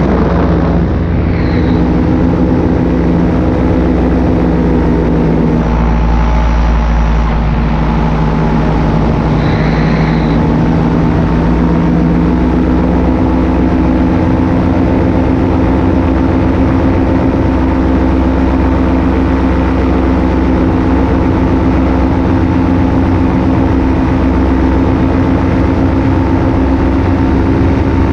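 Paramotor engine and propeller running steadily in flight, loud and constant. About six seconds in, the engine note shifts as the throttle changes, then settles again.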